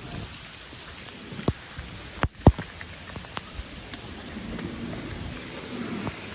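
Heavy rain pouring down and pattering on surfaces, a steady hiss, broken by a few sharp clicks, the loudest about two and a half seconds in.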